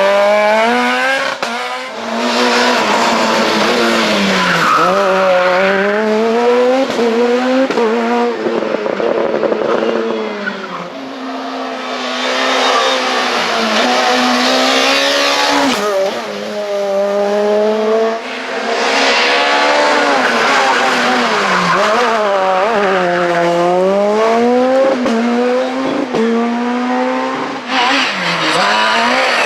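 Super 2000 rally cars' high-revving engines at full stage pace, the pitch climbing and dropping again and again with gear changes and lifts off the throttle. There are a few sudden breaks where one run gives way to another.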